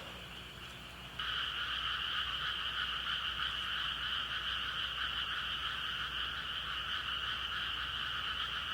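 Dense, steady chorus of frogs calling, suddenly louder about a second in.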